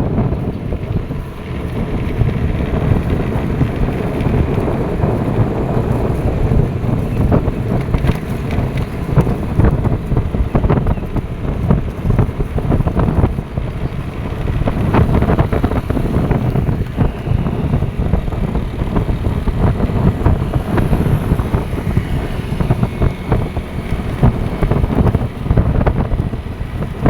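Loud, continuous low rumbling rush with irregular crackling, the buffeting of strong wind on the microphone.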